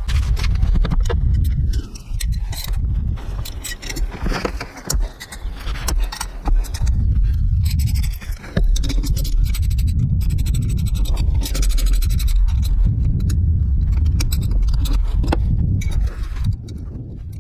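Scraping with many sharp metallic clicks and clinks, over a heavy low rumble of handling, typical of hand tools working on a motorcycle wheel.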